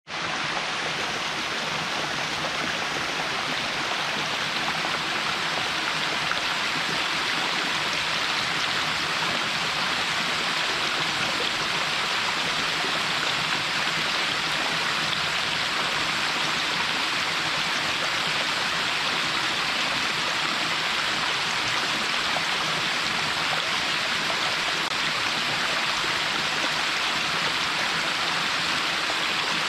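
Small waterfall splashing steadily into a mountain stream: an even, unbroken rush of falling water.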